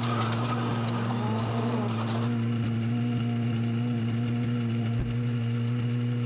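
A rally car engine running at a steady, unchanging pitch, with a rushing hiss over it for about the first two seconds.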